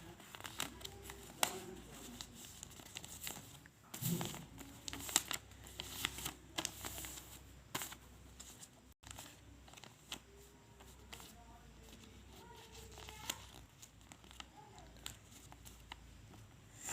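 A sheet of A4 paper being folded and creased by hand: irregular crinkles, rustles and small taps, with a louder rustle about four seconds in.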